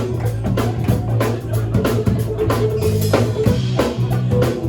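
Live rock band playing an instrumental passage: a drum kit keeps a busy, even beat with cymbal hits, over steady electric bass notes and guitar.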